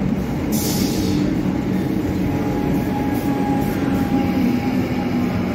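Comeng electric suburban train running into the platform: steady rumble of wheels and motors with a low hum that sags slightly in pitch as it slows. A short hiss of air comes about half a second in.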